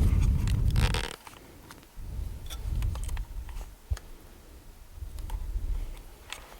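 Low rustling handling noise with scattered light metallic clicks and a knock about four seconds in, from a ring spanner being fitted and worked on the drive-belt tensioner's hex bolt under a car.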